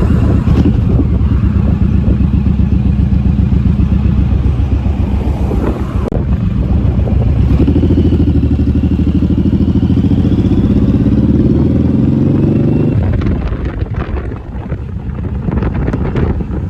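Motorcycle engine running under way. About halfway through the revs climb steadily for several seconds, then drop away suddenly as the throttle is closed.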